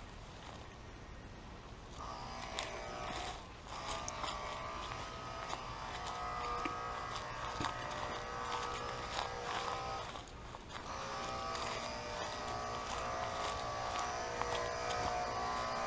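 A steady buzzing drone that is absent for about the first two seconds and drops out again briefly about ten seconds in, with light footsteps on the trail.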